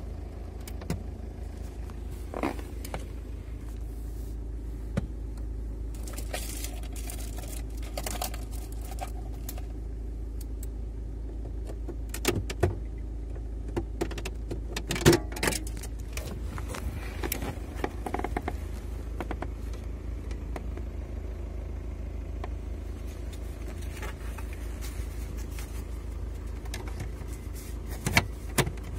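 Volkswagen Passat engine idling steadily in park, heard from inside the cabin, with scattered short clicks and knocks from handling the plastic dash trim, the loudest about halfway through.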